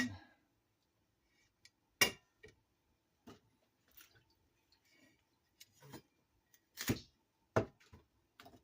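Handling bok choy at a kitchen counter: a few scattered short knocks and light clicks as stalks are snapped off and set down, the loudest about two seconds in and again around seven seconds in.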